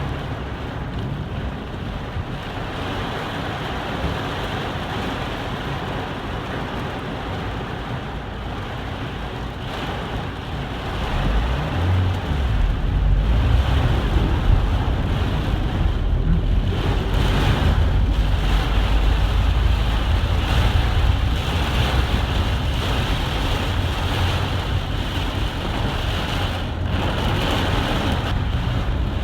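Heavy rain pouring down, with wind rumbling on the microphone; the low rumble grows louder about eleven seconds in and stays.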